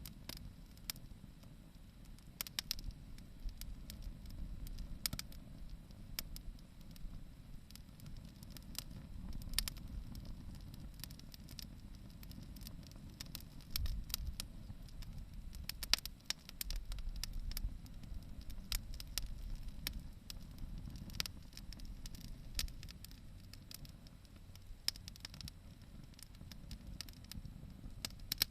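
Wood bonfire crackling, with frequent irregular sharp pops and snaps over a low steady rumble.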